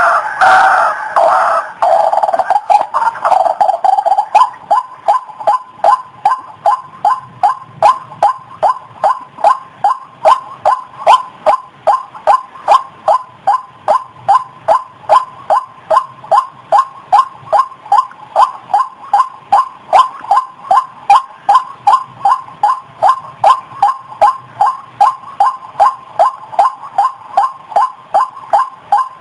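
White-breasted waterhen calling: a dense jumble of overlapping calls for the first four seconds or so, then a long run of short, even repeated notes at about two a second.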